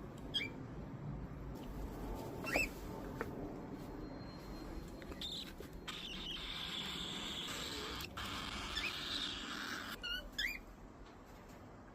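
Pet parrots giving short, scattered chirps: a few single calls, then a quick cluster near the end. Between about 6 and 10 seconds in there is a faint rustling, scratching noise.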